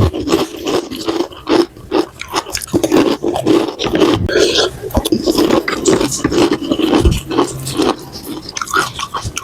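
Close-miked eating of spicy instant noodles and tteokbokki rice cakes: a rapid, irregular run of chewing, slurping and mouth sounds, with occasional sharp clicks.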